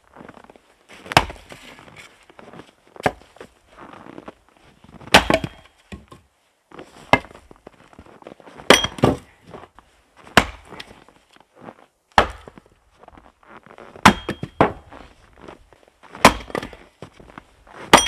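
Axe splitting firewood on a chopping block: about a dozen sharp chopping blows, one every second or two, with wood cracking apart.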